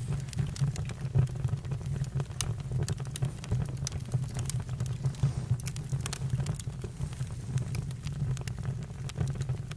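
Campfire crackling: frequent irregular pops and snaps over a steady low rumble.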